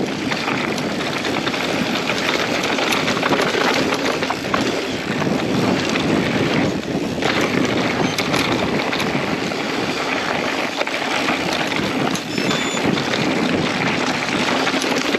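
Wind rushing over the camera microphone and tyres running on a dirt trail as a mountain bike is ridden downhill, with frequent small clicks and rattles from the bike.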